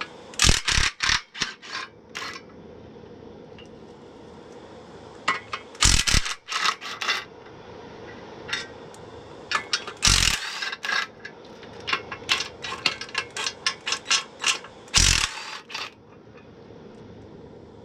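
Impact wrench run in short bursts, spinning bolts loose to remove the clutch pressure plate from the engine. Several rattling bursts come about a second apart early on and again around the middle, followed by a quicker string of sharp clicks near the end.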